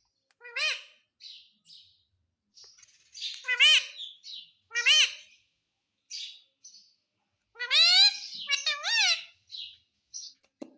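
Pet parrot calling: short, high calls that rise and fall in pitch, a few spaced seconds apart and then a quick run of them near the end, with softer chirps in between.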